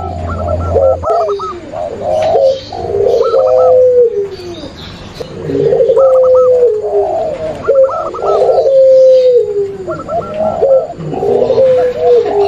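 Overlapping cooing of several doves, zebra doves, spotted doves and Barbary doves, layered together. Repeated phrases every couple of seconds: long low coos that hold and then fall, over quicker, higher trilled notes.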